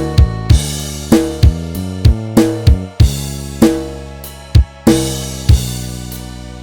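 Band backing track with the guitar removed: a drum kit of kick, snare and cymbals hitting over held bass and keyboard notes.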